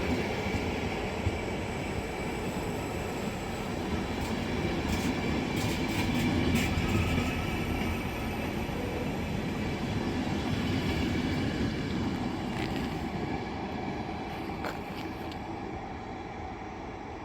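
Passenger train rolling out of the station, its wheels rumbling and clicking over the track, the sound fading as it moves away toward the end.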